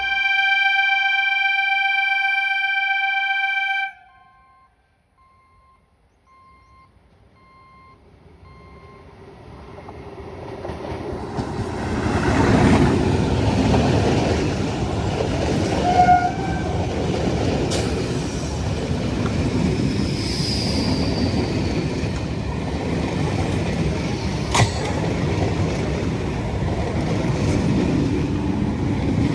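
Indian train's horn blowing one steady tone for about four seconds and cutting off suddenly. After a short lull, a train comes up and passes close by, its rumble building for several seconds and then staying loud, with occasional sharp clacks from the wheels on the rails.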